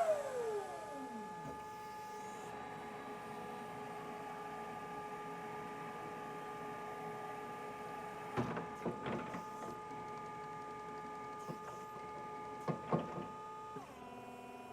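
Raymond Easi-30 electric reach truck's motors whining: a pitch falls away sharply at the start, then a steady multi-toned electric whine holds, with a few clunks about eight seconds in and again near the end, and the whine drops to a lower pitch just before the end.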